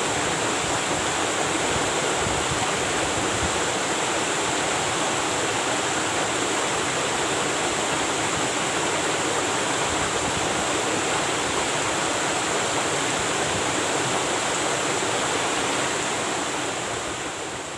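Waterfall's steady rush of falling water, fading out near the end.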